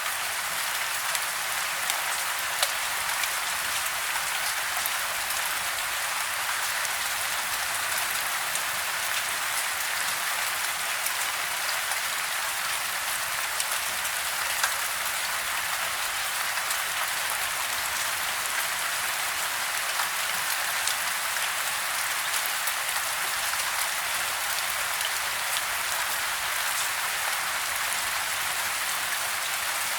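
Steady rain falling on a house, heard from inside, with scattered louder drops ticking through the even hiss.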